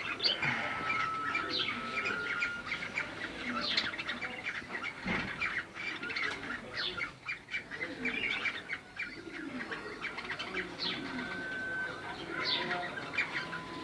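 Cockatiels chirping continuously, with a sharp rising call every few seconds and a few short, steady whistles.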